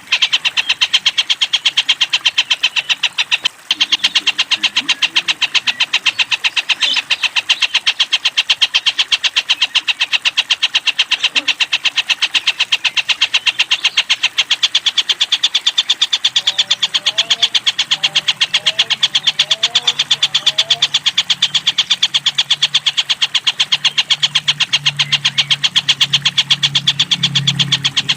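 Tengkek buto, a kingfisher, calling a continuous fast run of sharp, high, evenly spaced notes, several a second without a break.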